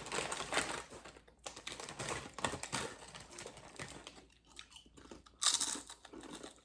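Close-up crunching and chewing of jalapeño ranch potato chips, irregular crackly bites, with one louder burst about five and a half seconds in.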